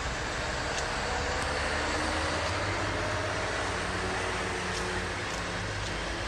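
A vehicle running past: a steady low hum with slowly gliding tones over a haze of road or wheel noise, swelling in the middle and easing toward the end.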